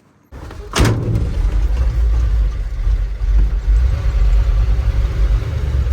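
Old pickup truck's engine running as it drives, a steady low rumble, with one sharp clunk just under a second in.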